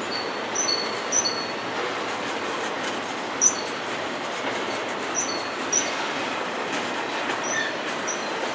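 CSX double-stack intermodal freight train of TTX well cars rolling past: a steady noise of steel wheels on rail, with short high-pitched wheel squeals about eight times, the loudest about three and a half seconds in.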